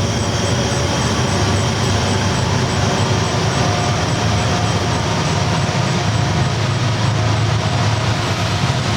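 Train rolling along the tracks: a steady, even rumble with a faint tone or two above it and no distinct clicks or breaks.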